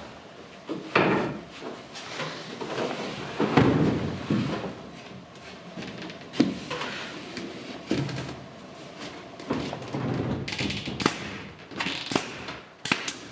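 Irregular knocks, bumps and clatter of a wooden plank being handled, glued and pressed into place inside a small truck cap shell.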